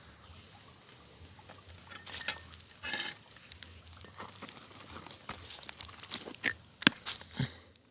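Stones and gravel crunching and clicking as someone digs among rock, in irregular scattered knocks, with a few sharper strikes near the end.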